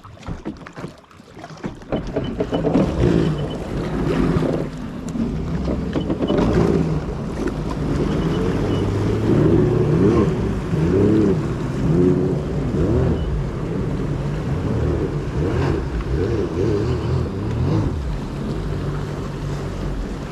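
Jet ski engine pulling away and running at speed, about two seconds in, its pitch rising and falling with the throttle, with wind noise on the microphone.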